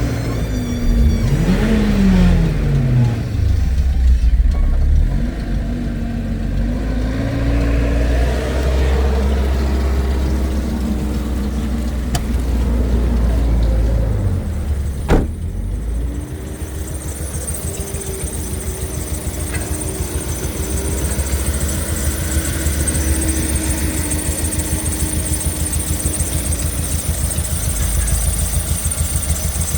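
Toyota 2SZ-FE 1.3-litre VVT-i inline-four engine being test-run: it is revved up and down several times, then after a sharp click about halfway through it settles to a steady idle.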